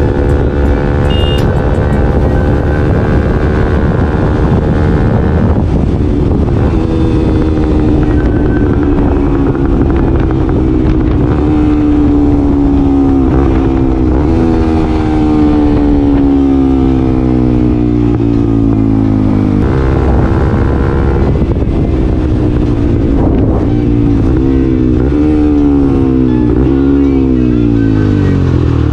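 Bajaj Pulsar NS200's single-cylinder engine through an R9 aftermarket racing exhaust, ridden on the road. Its pitch falls slowly through the middle as the bike eases off. Then it rises and drops several times in quick succession as it is revved through the gears, and falls away at the end, over a steady low rumble of wind.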